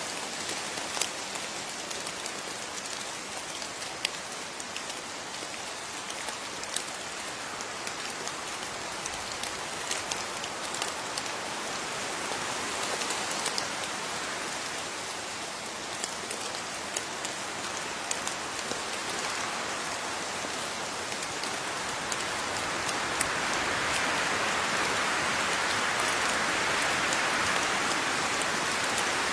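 Steady rain falling, with the patter of individual drops hitting a surface as scattered sharp ticks. The rain grows heavier and louder about two-thirds of the way through.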